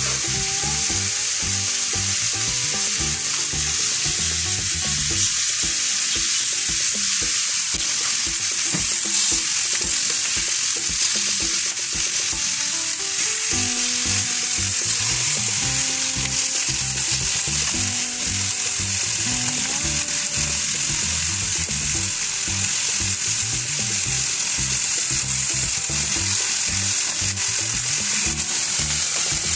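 Chicken pieces sizzling on a hot stovetop griddle: a steady, even hiss of frying.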